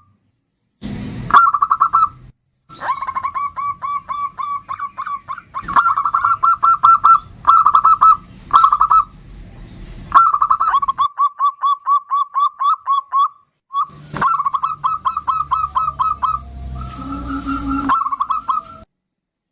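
Zebra dove (perkutut) calling in long runs of rapid staccato notes, several a second, broken into bursts by short silent gaps.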